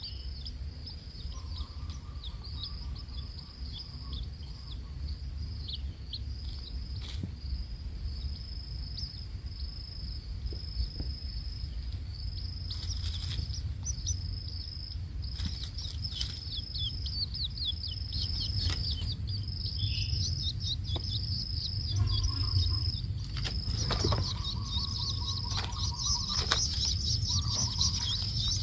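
Young long-tailed shrike chicks chirping: many short, thin, high chirps in quick succession over a steady high trill. A brief run of rapid ticking comes about two-thirds of the way through.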